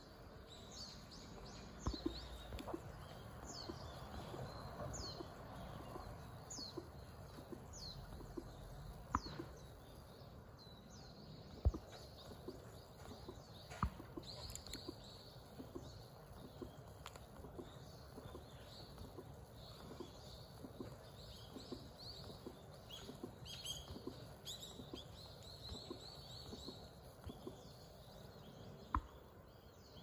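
Small birds chirping in the background, many short high chirps that fall in pitch, over a steady low outdoor background noise, with a few sharp clicks.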